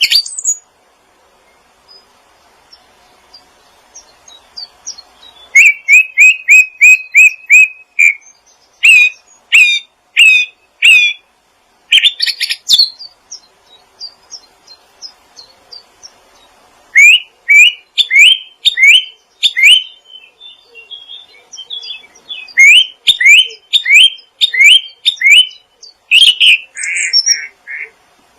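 Songbird chirping in bouts of loud, sharp, quickly repeated rising notes, several per second, with fainter high twittering between the bouts.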